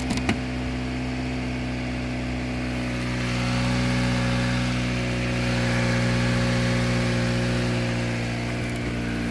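2008 Toyota Matrix's 1.8-litre inline four-cylinder engine idling steadily shortly after a cold start in freezing weather, a little louder in the middle.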